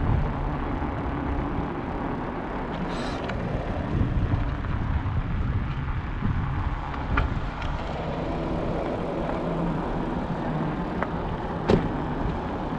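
Steady rumble of wind and road noise from a moving electric bike, with traffic around it and a sharp click near the end.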